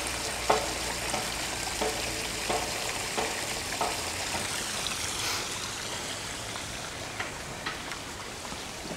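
Footsteps at an even walking pace, about one and a half steps a second, over a steady hiss; the steps fade in the second half.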